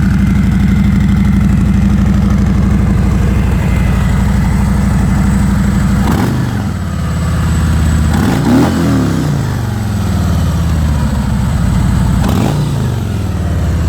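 Harley-Davidson Milwaukee-Eight 45-degree V-twin breathing through the stock mufflers and catalytic head pipe, idling and then revved in a few quick throttle blips from about six seconds in, the pitch rising and falling each time.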